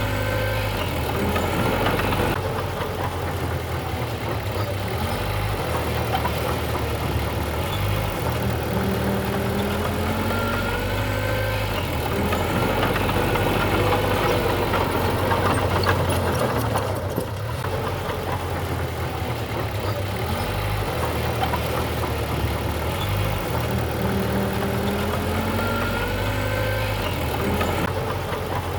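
Diesel engine of heavy earthmoving machinery running steadily. A short rising whine comes through a few times.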